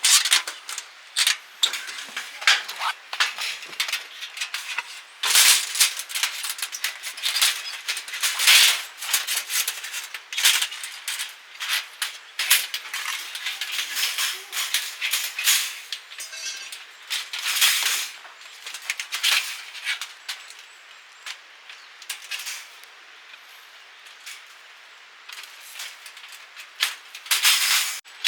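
Irregular clicks, clatters and rustling of camping gear being handled while a camp is set up.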